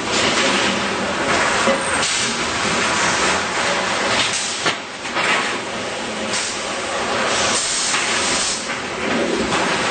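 Jerrican-tube resistance seam welding machine running, a steady mechanical hiss that swells into louder hissing every second or two.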